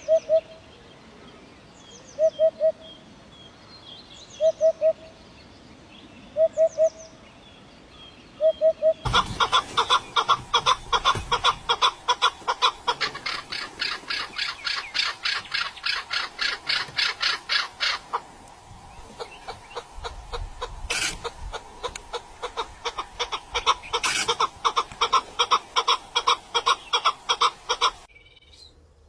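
Birds calling. First a low two-note call repeats about every two seconds over faint high chirps. Then, about nine seconds in, a much louder, fast run of rapidly repeated notes starts suddenly and carries on until it cuts off near the end.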